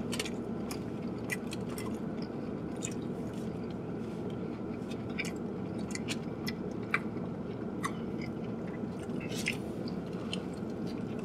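People chewing and biting into hamburgers: scattered short, wet mouth clicks and smacks over a steady low hum.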